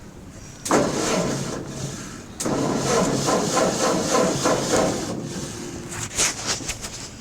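Tractor engine being cranked by the starter in two runs, the first about a second in and a stronger one a moment later, fading out near the end with a few clicks; the engine does not keep running.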